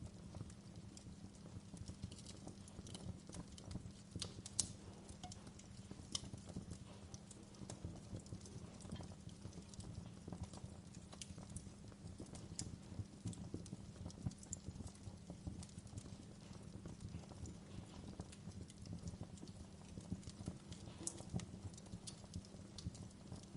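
Wood fire in a fireplace crackling, with irregular sharp pops and snaps, one louder pop about four and a half seconds in, over a low steady rumble.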